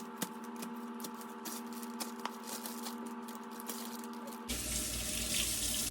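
Small crackles of a plastic bag being handled as raw chicken goes into it, over a steady electrical hum. About four and a half seconds in, the hum stops and a loud steady hiss takes over.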